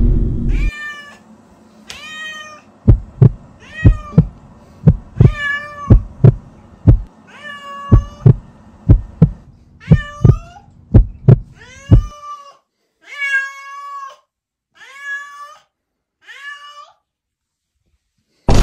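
Orange tabby cat meowing over and over, about fourteen drawn-out meows. From about three seconds in to about twelve seconds in, a run of dull low thumps comes about twice a second, then stops while the meowing goes on.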